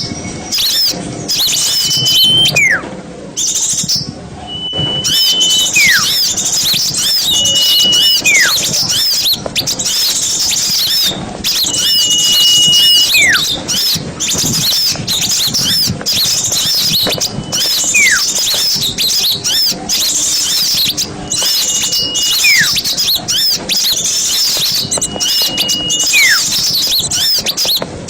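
A dense chorus of small songbirds chirping and trilling without a break, from a bird-lure recording mixing many small species. Every three to five seconds a clear whistle stands out: a held high note followed by a separate whistle that slides steeply down.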